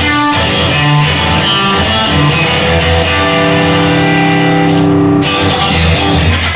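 Rock music without vocals, led by guitar with bass and a regular beat, playing held chords.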